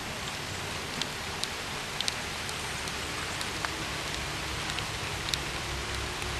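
Steady rainfall, an even hiss with scattered sharper ticks of individual drops striking nearby.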